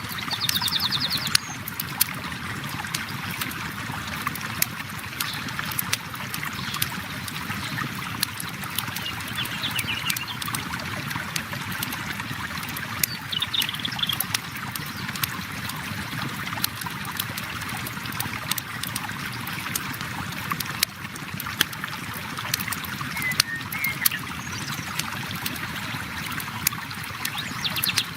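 River water flowing steadily, with the sharp pops and crackles of a burning campfire scattered through it. A few short high chirps come now and then.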